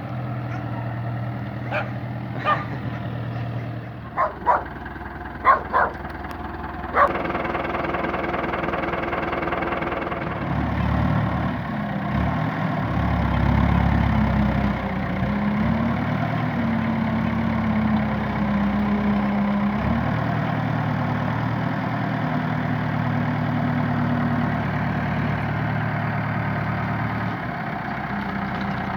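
A Fendt tractor's engine runs throughout. A dog barks about seven times over its steady hum in the first seven seconds. From about ten seconds in, the engine's pitch wavers up and down.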